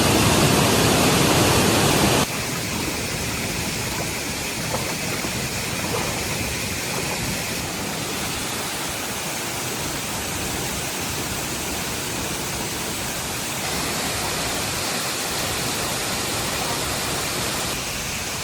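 Steady rushing noise, like falling water or rain. It drops sharply about two seconds in and changes tone a few more times, as at cuts between shots.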